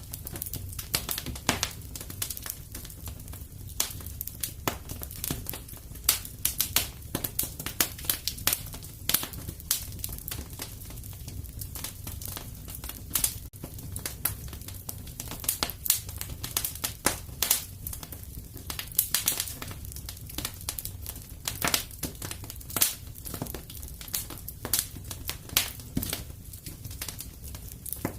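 Wood fire in a fireplace crackling, with irregular sharp snaps over a low steady rumble.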